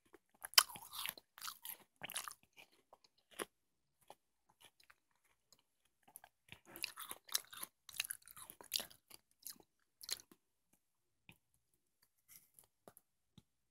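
Close-miked biting and chewing of watermelon, crisp wet crunches in two bouts with a quiet pause between them.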